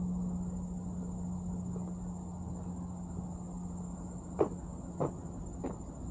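A steady high-pitched insect trill over a low hum that fades away, with three sharp knocks about half a second apart near the end.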